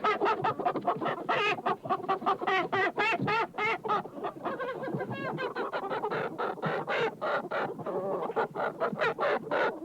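A flock of chickens clucking: many short calls overlapping in a quick, busy run, several a second.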